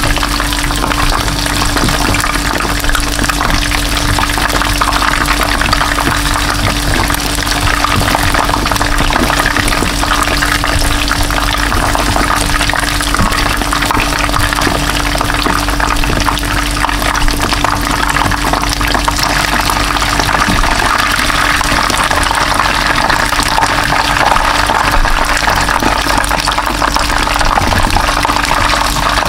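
Battered chicken wings deep-frying in hot oil in a pan: a steady, loud sizzle.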